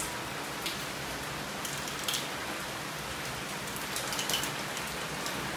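Heavy rain falling steadily in a downpour, with a few sharper drop hits a couple of times along the way.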